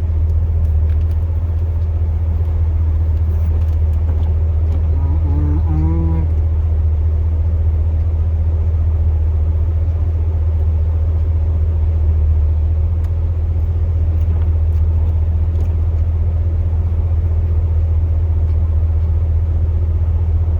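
Steady low drone of a 2002 Chevrolet Silverado's 8.1-litre big-block V8 gasoline engine, heard from inside the truck's cab.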